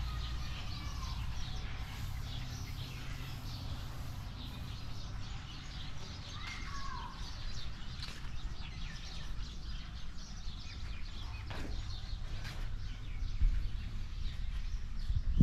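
Birds calling now and then, a few short chirping glides, over a steady low rumble, with a few short clicks in the second half.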